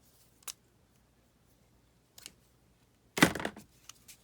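Scissors cutting a length of cotton cord: a short snip about half a second in and a louder, rougher cut a little after three seconds.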